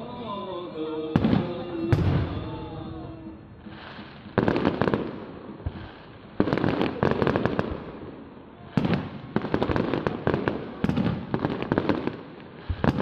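Aerial firework shells bursting overhead: two sharp bangs in the first two seconds, then clusters of rapid crackling reports about every two seconds.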